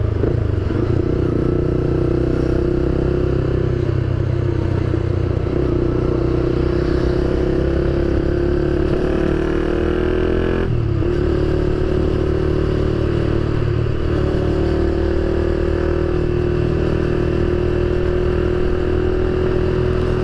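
Motorcycle engine running under way: the engine note climbs for several seconds, drops abruptly about eleven seconds in as the rider shifts up a gear, then holds steady.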